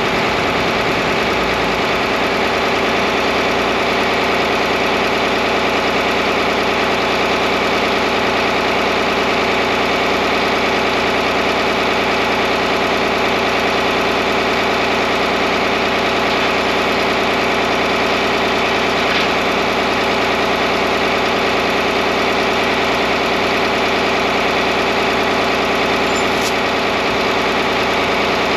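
John Deere 4010 tractor engine running steadily at an even idle.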